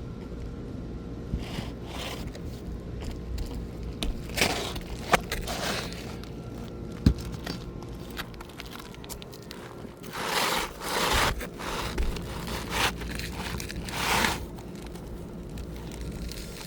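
Asphalt roofing shingle scraping and rustling as a replacement is slid into place under the shingles above, in several short bursts, with a couple of sharp clicks.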